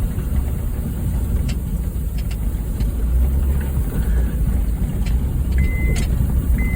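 Honda Fit driving over a rough dirt trail: a steady low rumble of engine and tyres, with scattered knocks and rattles. A short high beep sounds twice near the end.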